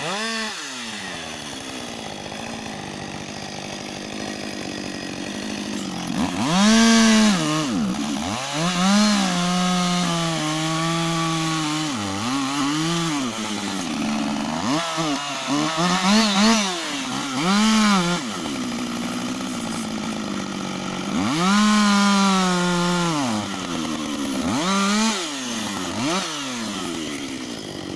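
Husqvarna 562 XP two-stroke chainsaw idling steadily, then revved up to full throttle again and again from about six seconds in, each time held briefly and falling back to idle, about eight times in all.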